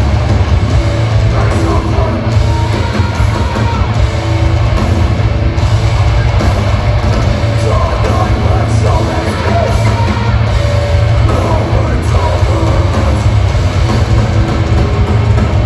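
Live heavy metal band playing loud, with distorted guitars, a heavy low end and yelled vocals over the top.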